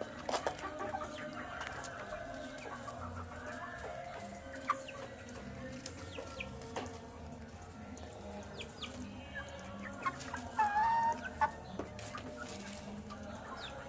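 Young chickens clucking and peeping while they feed, with scattered short clicks throughout and a louder call about ten and a half seconds in.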